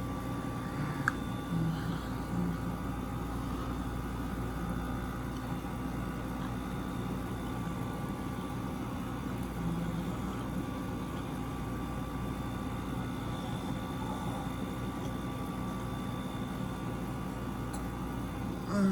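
Window air conditioners running: a steady hum with several constant thin whining tones over a low drone.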